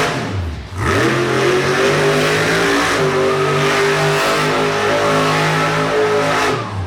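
Bigfoot monster truck's engine revving hard during a donut run, held at high revs. It dips and climbs back about half a second in, and drops off near the end.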